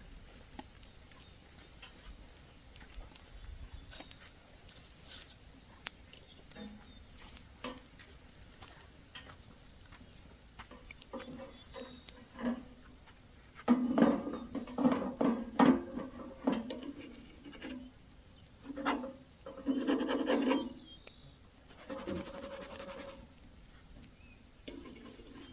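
Pancakes frying in a pan over a small wood-fired stove: faint crackling and ticking, then from about halfway louder irregular bursts of scraping and rubbing, a utensil working against the frying pan.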